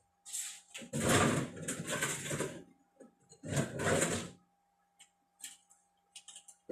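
Rummaging noise: two long bouts of rustling and scraping as things are searched through and pulled out, then a few light clicks and taps.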